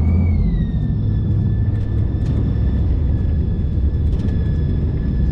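Tige 24-foot tournament ski boat's inboard engine revved up in reverse: a steady, deep rumble with a whine that climbs at the start and then settles to a steady pitch.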